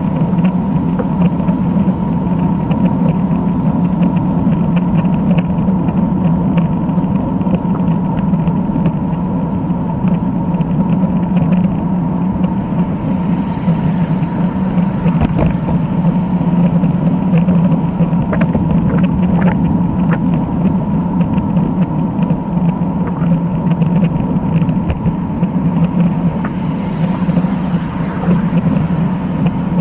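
Steady low rumble of a road-bike ride, tyre and wind noise on the camera, with a constant faint whine above it.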